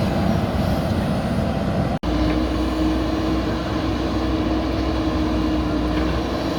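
Diesel engine of heavy earth-moving machinery running steadily. The sound cuts out for an instant about two seconds in, then resumes with a steady hum over the engine.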